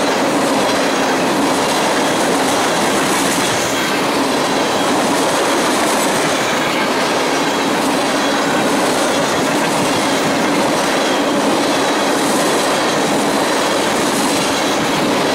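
Freight train cars rolling past at close range: a loud, steady rumble of steel wheels on rail, with a faint recurring brighter sound every few seconds as trucks pass.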